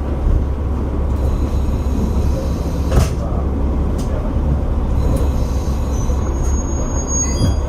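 Inside a KiHa 47 diesel railcar moving slowly: a steady low diesel and running rumble, a sharp clack of the wheels about three seconds in, and a thin high squeal near the end.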